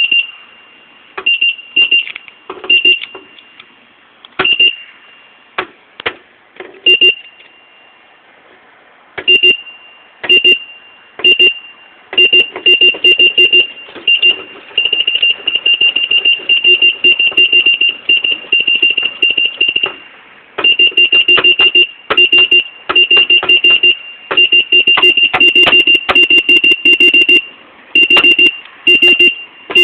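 Electronic beeper sounding a fixed high-pitched tone in short beeps, sparse and irregular at first, then in quick runs of many beeps with short pauses.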